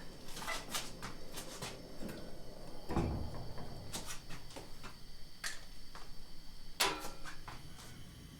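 Household objects being handled: a run of light clicks and knocks, a dull thump about three seconds in, and a sharp clatter near the end.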